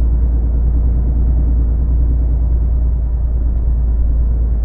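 HGV truck's diesel engine and road noise droning steadily inside the cab while driving, a deep low rumble with no sudden changes.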